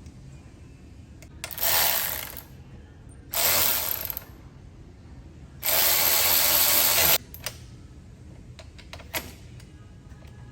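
Ratchet wrench clicking in three runs, the last and longest lasting about a second and a half, followed by a few light clicks.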